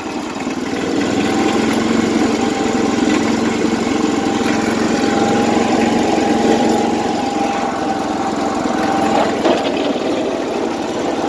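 Tractor engine running steadily as the tractor backs up, picking up about a second in, with a single short knock about nine seconds in. The engine is running a little rich, which the owner puts down to a governor that needs adjusting.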